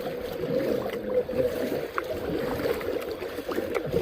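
Water sloshing and gurgling around a kayak, with small scattered drips and splashes.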